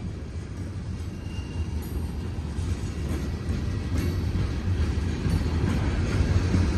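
Freight train tank cars rolling past: a steady low rumble of wheels on rail with occasional sharp clicks, growing louder toward the end.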